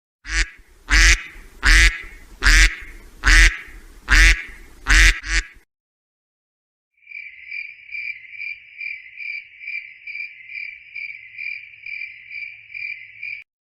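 A duck quacking seven times in an even series, then, after a short pause, a cricket chirping in a steady high-pitched pulsing trill of about three pulses a second.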